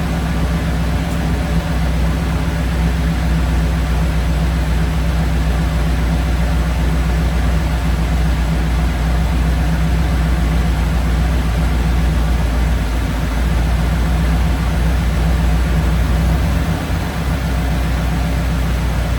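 Ford flathead engine with twin Holley 94 carburettors idling steadily, then starting to falter near the end as it runs out of fuel.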